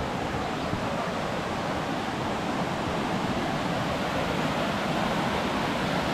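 Steady rush of wind and water noise from a jet ski running across the lake, with no distinct engine note standing out.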